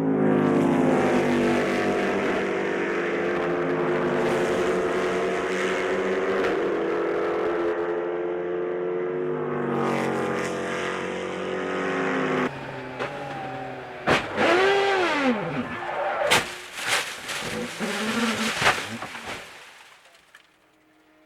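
Sports racing cars' engines at full race speed, their pitch sliding up and down as they accelerate and pass. About halfway through there is a change to shorter engine passes punctuated by several sharp cracks, and the sound fades out near the end.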